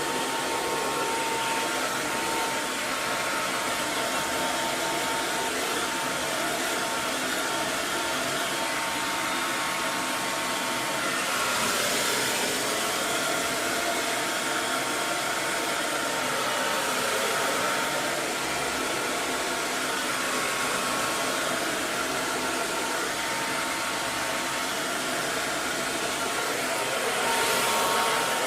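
Electric hair dryer running continuously, a steady rushing of air with a faint whine from its motor, used as white noise for lulling babies to sleep. It swells a little louder briefly about twelve seconds in and again near the end.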